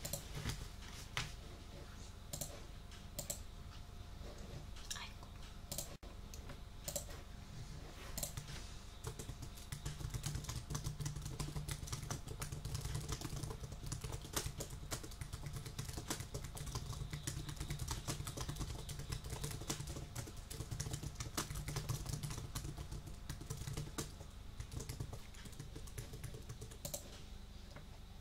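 Computer keyboard being typed on, with scattered keystrokes or clicks at first, then steady fast typing for most of the rest.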